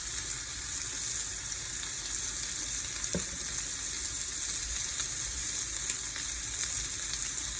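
Salmon and onions frying in a pan, a steady sizzling hiss.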